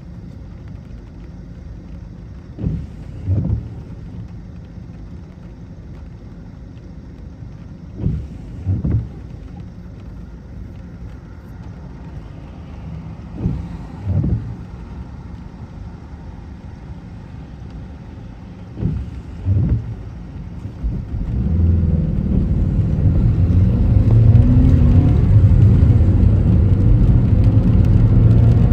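Car driving with a steady low road rumble, broken every five or six seconds by a pair of short thumps. Near the end the engine grows louder as the car accelerates.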